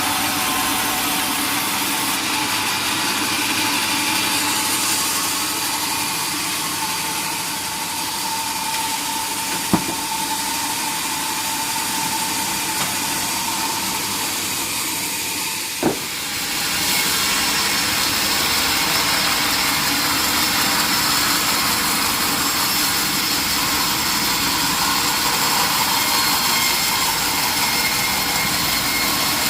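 Sawmill machinery running steadily, with a thin steady tone over the noise for the first half and two sharp knocks, about ten and sixteen seconds in.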